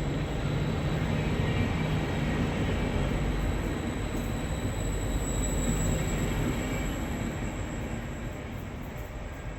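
Regional train moving through the station: a steady rumble of running gear and wheels on the rails, easing off slightly in the last few seconds.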